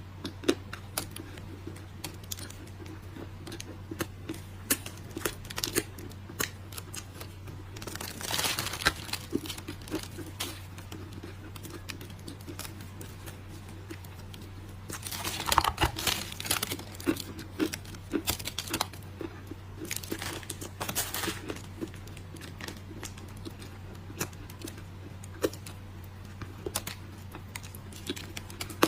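Dry clay being crushed and crumbled: many sharp crunches and cracks, with two longer crumbling bursts about eight and fifteen seconds in. A steady low hum runs underneath.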